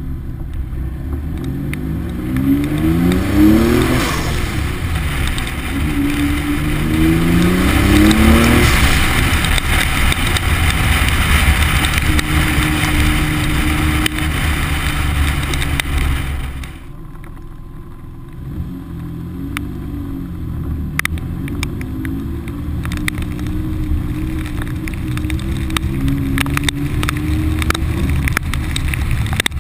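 Noble M400's twin-turbo Ford Duratec V6 accelerating hard, its revs climbing twice as it pulls through the gears, under heavy wind and road noise on the outside-mounted camera. About seventeen seconds in the wind noise drops away sharply as the car eases off, and the engine then runs on at lower revs while raindrops tick against the camera.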